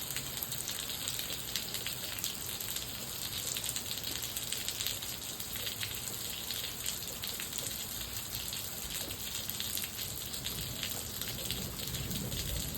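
Steady rain falling, with many small, sharp drop hits.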